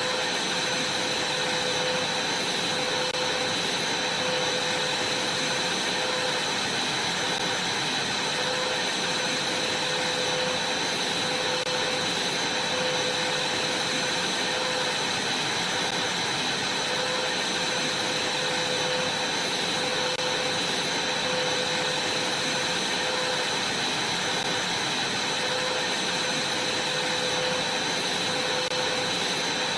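Vacuum cleaner running steadily: an even rushing of air with a constant whine.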